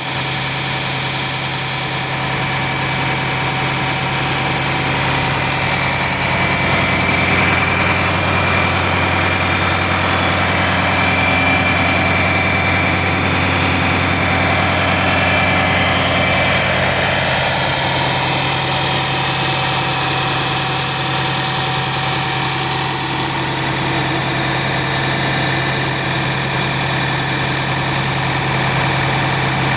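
Engine idling steadily, with a deeper low note joining for about ten seconds in the middle.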